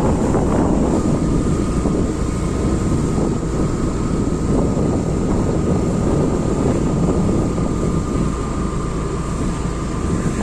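Steady wind rush over the microphone and road and engine noise while riding a motorbike in traffic, with a thin steady high whine from about a second in.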